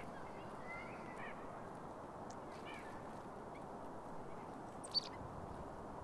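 Steady wind noise with a few short, nasal bird calls, and one sharp, high chip about five seconds in.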